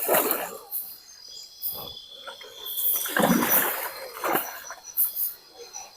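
Several irregular splashes of river water around a bamboo raft being moved downstream, the largest about three seconds in, over the steady high chirring of insects.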